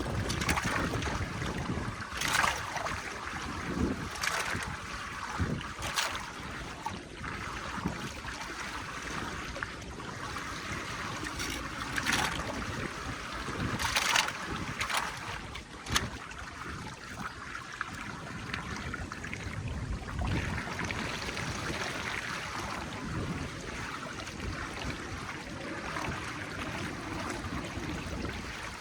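Steady rush of flowing water, with wind on the microphone and sharp knocks or splashes every couple of seconds, mostly in the first half.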